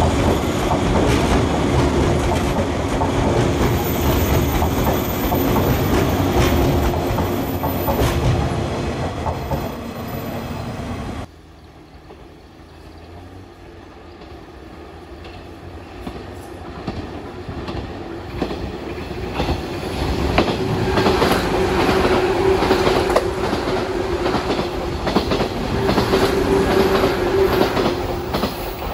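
JR 185 series electric trains running past. In the first part, one passes with wheels clattering over rail joints and a steady hum, and it cuts off suddenly about eleven seconds in. Then another approaches, grows louder and passes close beneath with rhythmic clatter.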